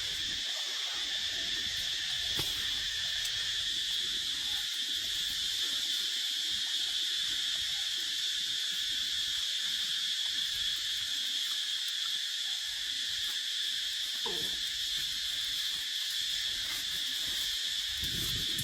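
Steady insect chorus, a continuous high-pitched shrill that does not let up. About three-quarters of the way through, a short sound slides downward in pitch.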